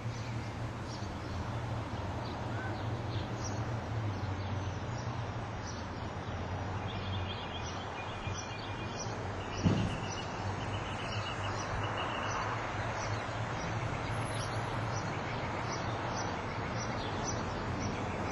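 Outdoor ambience with small birds chirping: short high chirps repeat about once a second, and a faster trill joins in around the middle. A steady low rumble and hiss lies under them, and a single thump about ten seconds in is the loudest sound.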